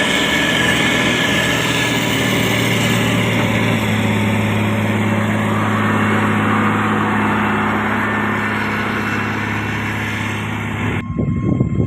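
Diesel engine of heavy road-building machinery running steadily at a constant note, with a steady hum and a noisy roar above it. The sound cuts off abruptly near the end and a different sound takes over.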